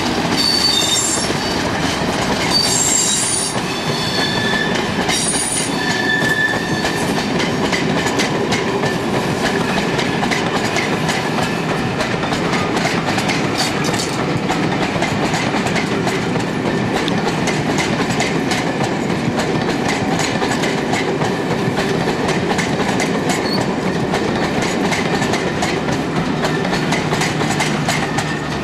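Locomotive-hauled train of coaches behind Class 37 diesels pulling away over curved track and pointwork. High-pitched wheel squeals come and go over the first several seconds, then a steady rumble runs with a continuous run of wheel clicks as the coaches roll past.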